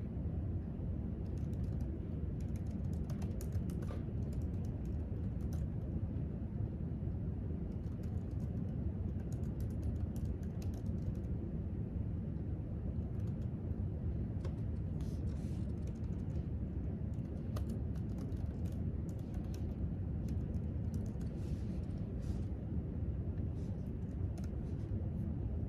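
Irregular keystrokes typed on a laptop keyboard in short runs, over a steady low room hum.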